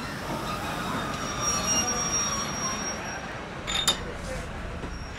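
Railway carriages rolling on the track with the wheels squealing faintly, and a single metallic clank about four seconds in.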